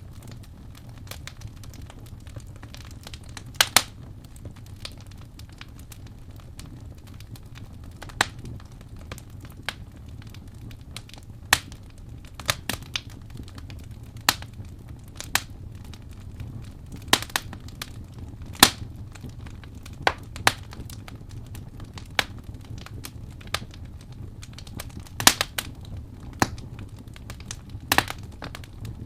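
Wood fire in a fireplace crackling: irregular sharp pops, about one every second or two, over a steady low rumble of the flames.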